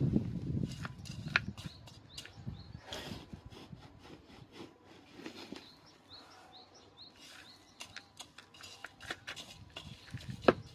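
Rustling and scraping from hands or a tool working material, with scattered sharp clicks and one louder click near the end. A small bird chirps several times in the middle.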